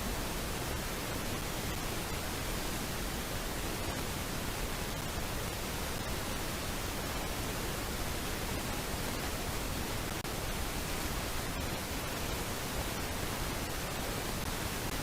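Steady, even hiss of static-like noise with no bird calls standing out.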